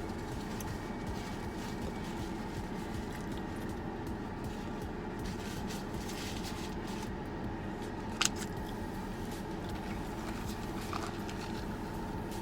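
Car engine idling with the air conditioning running: a steady low hum. A single sharp click about eight seconds in.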